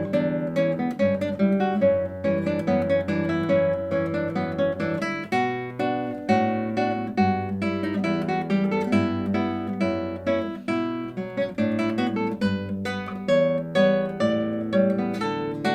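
Solo classical guitar playing a lively run of plucked notes over a moving bass line.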